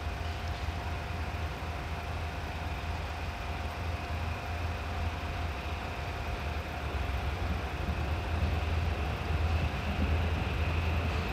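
DD51 diesel-hydraulic locomotive running with a steady low engine hum, growing gradually louder toward the end.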